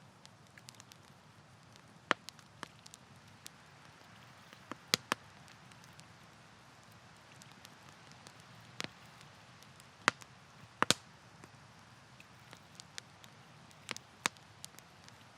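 Campfire crackling: irregular sharp pops and snaps from the burning wood, a few of them loud, over a soft steady hiss.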